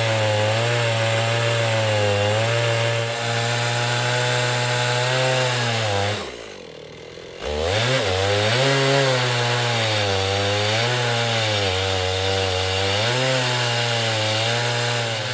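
Two-stroke chainsaw in an Alaskan chainsaw mill, ripping a long pine log under load, its engine pitch wavering as the cut loads and unloads it. About six seconds in the throttle is let off and the engine note drops away, then it revs back up into the cut a second and a half later.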